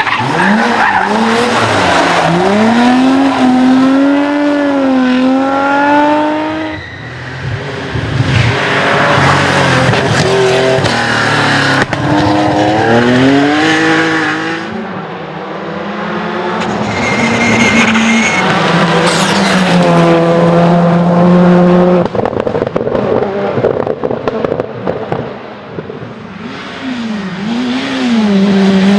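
Rally cars going by flat out one after another, their engines revving up and falling away through the gear changes, with some tyre squeal. There are short dips between cars, about a quarter, half and five-sixths of the way through.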